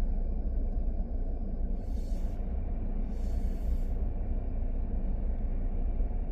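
Steady low vehicle rumble, like road and engine noise of a moving vehicle, with two short hisses about two and three seconds in.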